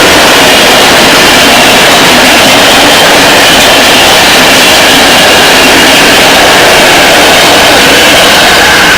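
A train passing close by: loud, steady rushing running noise with no break, a few faint steady high tones riding on top.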